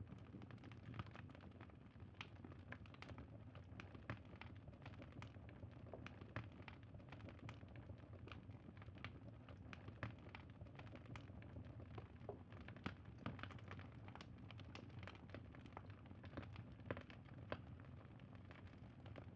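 Faint campfire crackling: many irregular sharp pops and snaps of burning wood over a low steady rumble.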